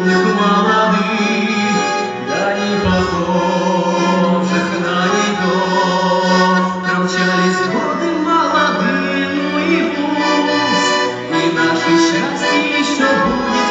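Accordion playing a melody over held chords, continuous throughout.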